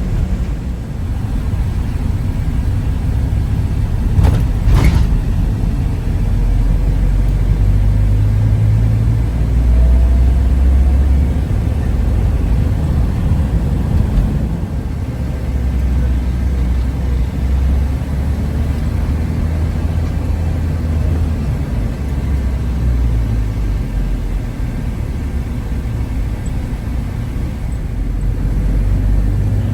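Low, steady rumble heard from inside a moving vehicle, swelling and easing, with one sharp knock about four and a half seconds in.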